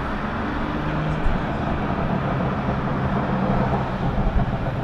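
Car engine and tyre noise heard from inside the cabin while driving: a steady low drone over road hiss, with the engine note barely standing out.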